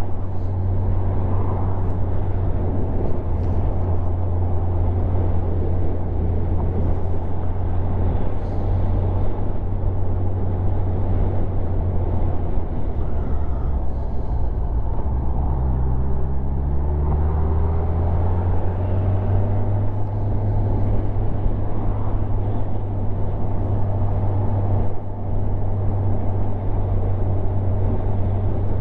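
Motorcycle engine running under way, a steady low drone with rushing wind noise over it. About halfway through the engine note drops, then climbs back up as the revs rise again.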